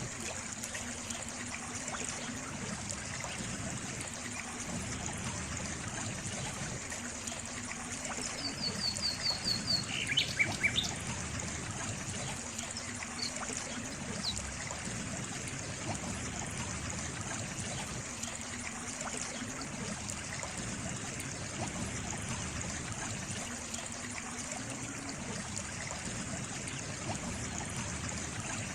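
Water trickling steadily. About eight seconds in, a bird gives a quick run of high notes, then a few louder chirps, for about three seconds.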